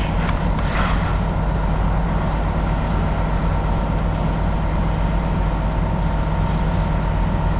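A heavy engine idling steadily, a constant low hum.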